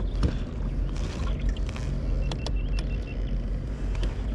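Kayak out on the water: a steady low rumble with an even hiss and a few light clicks and knocks from the hull and gear.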